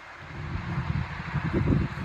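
Wind buffeting the microphone, an uneven low rumble that builds and gets louder toward the end.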